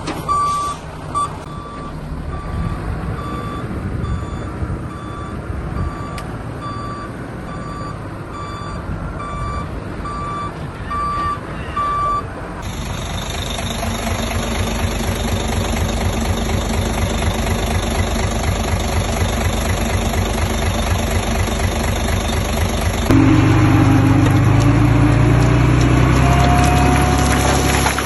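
A dump truck's reversing alarm beeping evenly over a running diesel engine for about the first twelve seconds. After an abrupt change, a heavy machine's diesel engine runs steadily and gets louder about 23 seconds in, with a faint rising whine near the end.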